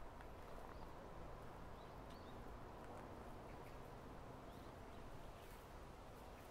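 Faint, steady patter of rain in a forest, with a few faint high bird chirps.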